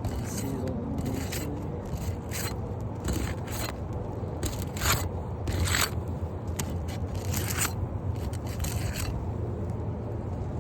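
A tool scraping and working under asphalt roof shingles in a run of short, irregular strokes, as a damaged, sealed-down shingle is worked loose for removal.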